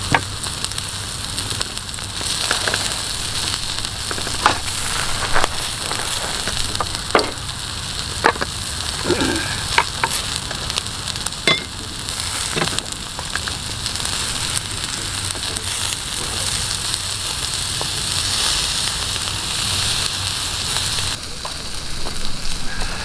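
Yakitori skewers sizzling over a wood fire as the sauce and fat cook, a steady hiss broken by scattered sharp pops and crackles.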